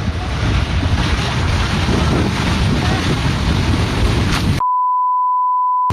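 Wind buffeting the microphone with indistinct voices under it. About four and a half seconds in, everything cuts out and is replaced by a steady, single-pitched censor bleep.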